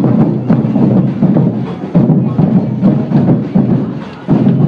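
Drums playing loudly: dense rhythmic drumming, with a sharp surge about every two seconds.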